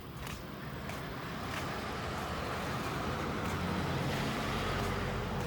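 Road traffic: a motor vehicle running and drawing nearer, its noise growing gradually louder.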